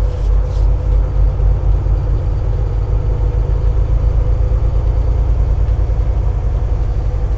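Volvo semi truck's diesel engine droning steadily at highway speed, heard from inside the cab, with a steady hum above the low rumble. A few faint ticks sound in the first second.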